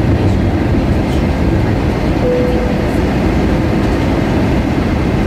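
Steady low rumble of cabin noise inside an Airbus A320-232 in flight, from its engines and the airflow over the fuselage, during descent toward landing.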